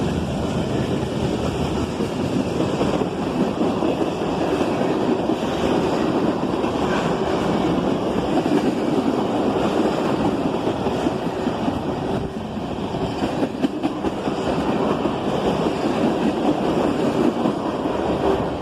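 Freight train rolling past, a steady rumble of wheels on the rails, with wind on the microphone.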